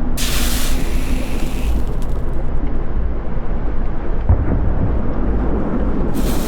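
Deep, continuous rumble of a volcanic eruption, with a loud burst of hiss for about a second and a half near the start and another just before the end.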